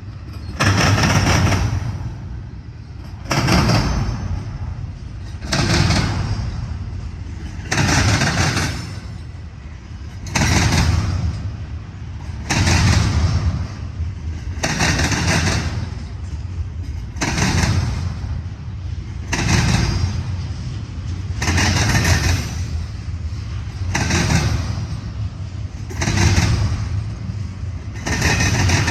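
Intermodal freight train rolling past, its cars' wheels clattering over the track in a steady beat of loud surges about every two and a quarter seconds over a continuous rumble.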